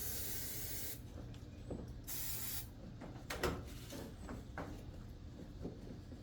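A spray hissing in two bursts: one that cuts off about a second in, then a shorter one about a second later. A few light knocks and taps follow, the loudest about halfway through.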